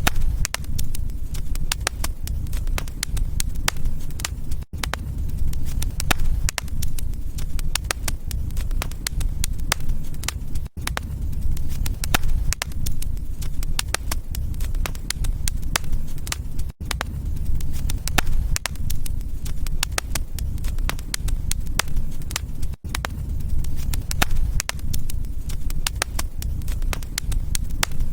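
Wood fire crackling, with sharp irregular pops over a steady low rumble. The sound drops out for an instant about every six seconds.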